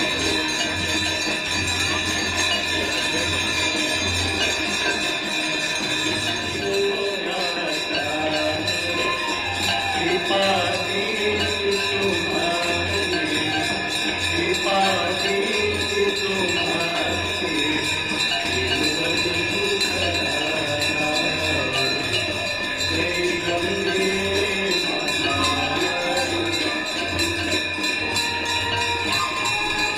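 Ganga Aarti ceremony music: many small bells ringing continuously over a steady drum beat, with a voice singing the aarti hymn from about seven seconds in.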